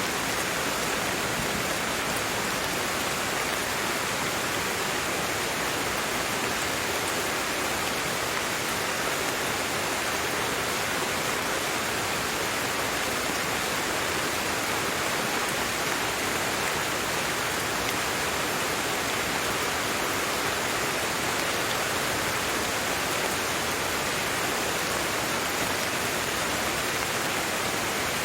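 Steady rain, an even unbroken hiss without separate drops or thunder.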